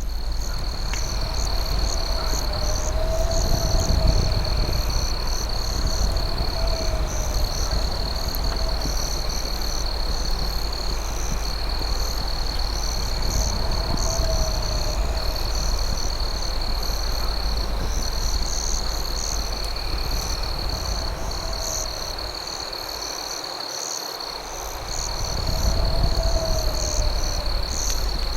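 Night insect chorus: crickets keep up a steady, high-pitched trill with faster pulsing chirps above it. A lower wavering call repeats every two to three seconds over a low rumble that dips briefly near the end.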